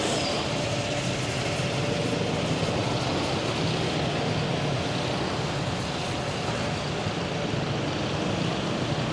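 Petrol station fuel dispenser running steadily as fuel is pumped into a motorbike's tank, a constant hum over a steady rushing noise.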